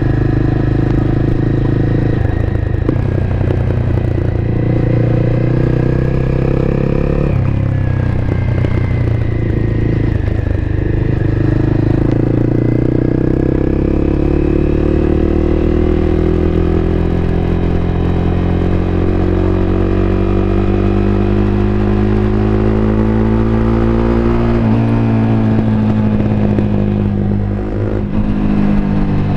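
Honda CBR250R's single-cylinder engine running under way, heard on board. The engine note climbs slowly over about ten seconds through the middle, then drops and breaks twice near the end as gears are changed.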